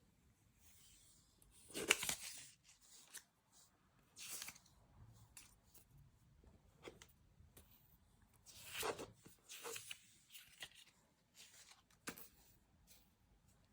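Paper postage stamp sheets being handled: irregular rustling and crinkling, loudest about two seconds in and again near nine seconds.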